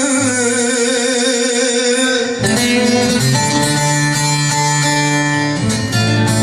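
A man's long sung note with a wide vibrato, held until about two seconds in. Then bağlama and acoustic guitar play a plucked instrumental passage of Turkish folk uzun hava.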